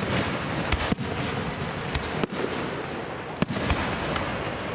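Aerial fireworks shells bursting: about six sharp, echoing bangs at uneven intervals over a steady crackling hiss.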